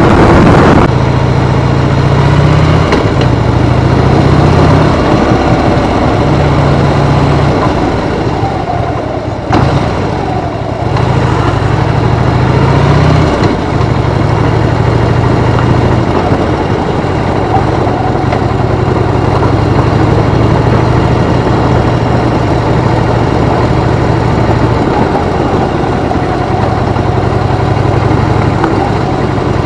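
Harley-Davidson motorcycle engine running, its low note stepping up and down in pitch again and again, with a brief drop in level about ten seconds in.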